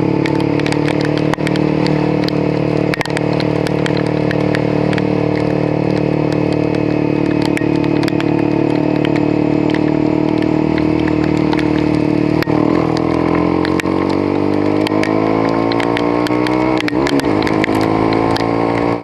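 Motorcycle engine running at a steady speed, then rising in pitch through the second half as the bike accelerates, with frequent sharp ticks over it.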